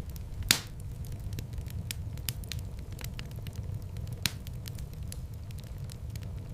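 Wood fire crackling in a fireplace: a steady low rush of flames under scattered small crackles, with a sharp pop about half a second in and another a little after four seconds.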